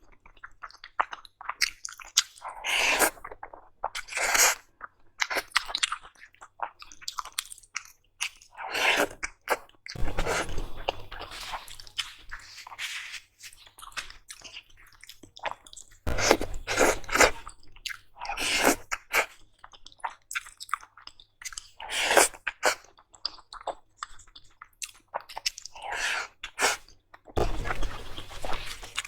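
Close-miked eating sounds: mouth chewing food with crunchy bites, in irregular bursts every second or two. A few dull low bumps come in between.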